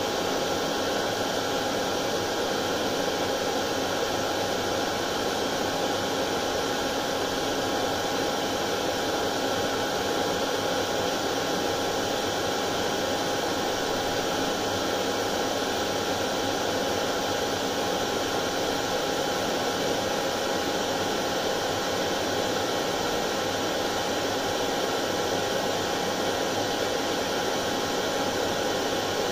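Hair dryer running steadily: a constant airy whoosh with a faint steady hum, used as white noise to lull colicky babies to sleep.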